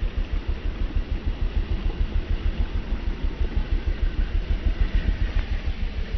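A vehicle engine running with a low, even throb, about six pulses a second, over a steady hiss.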